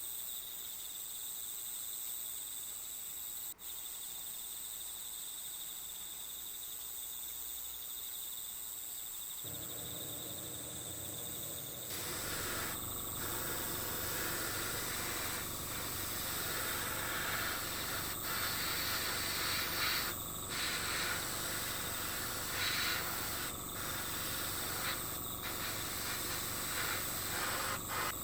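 Steady chirring of crickets and other insects as a nature-sound ambience. About ten to twelve seconds in, a louder hissing noise joins it and carries on, broken by several brief dropouts.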